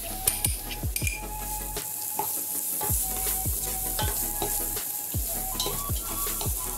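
Chopped onion and crushed ginger-garlic sizzling in hot oil in a nonstick pot, stirred with a wooden spatula that scrapes across the pan in repeated strokes about every half second.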